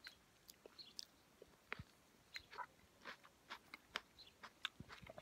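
Close-up mouth sounds of a person biting into and chewing a ripe red cherry plum: soft, irregular clicks and smacks.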